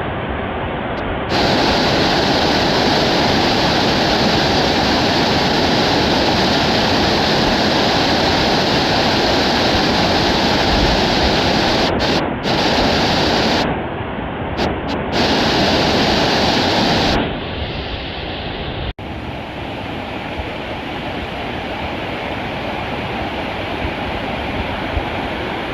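Steady rushing of a mountain stream, with louder stretches of wind on the microphone that cut in and out abruptly during the first two-thirds.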